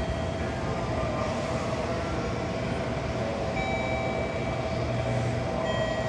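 JR Kyushu 787 series electric limited express train moving slowly along the platform and drawing to a stop: a steady rumble of wheels and running gear, with thin steady high-pitched tones that come and go.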